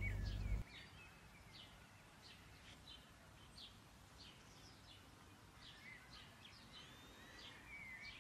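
Faint birds chirping: many short, high calls with a few gliding whistles. A low hum stops under a second in.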